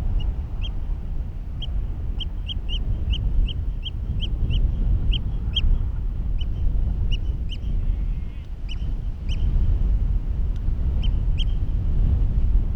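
Wind buffeting the microphone, with a bird calling over it in short, high notes, repeated about two or three a second at times.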